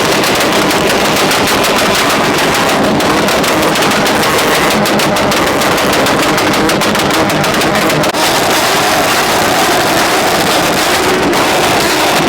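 Loud car engine running at high revs, its exhaust giving a rapid, stuttering crackle with no break.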